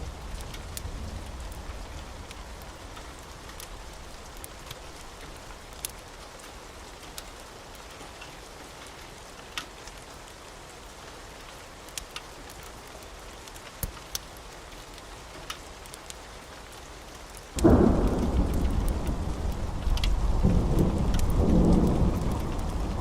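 Wood fire crackling, with sparse sharp pops every second or two over a steady hiss. About three-quarters of the way through, a loud low rumble starts suddenly and carries on.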